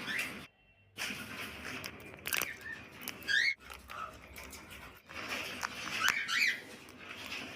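Pet cockatiels giving short rising chirps, mixed with scattered sharp clicks.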